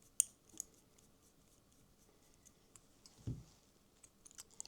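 Faint clicks and light taps of small tools against the metal chassis of a model locomotive as it is worked on at a bench, with one dull knock about three seconds in and a few quick ticks near the end.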